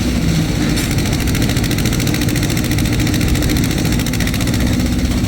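An engine running steadily at a constant speed, with a fast, even ticking rattle over it from about a second in.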